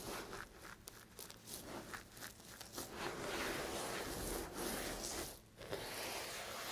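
Knife cutting through dry bar soap: a quick run of short crackling crunches, then longer scraping cuts with a short break near the end.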